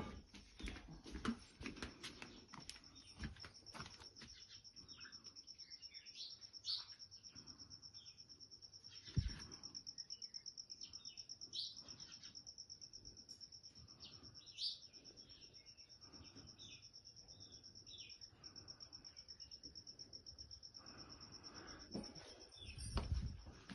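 Steady, rapidly pulsing high-pitched chirping, with scattered clicks and knocks and one louder thump about nine seconds in.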